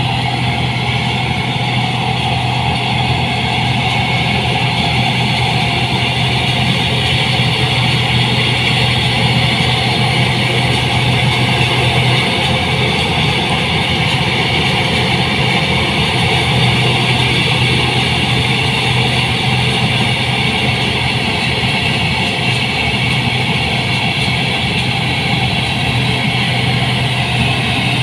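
New Holland 8060 combine harvester running steadily, its engine note holding even throughout.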